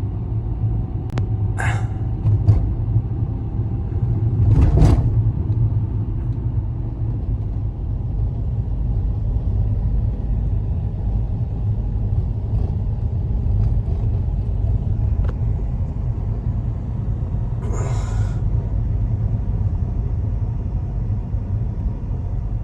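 Strong winter storm wind buffeting the microphone: a loud, steady low rumble. A few brief knocks or rustles come through, near the start and again near the end.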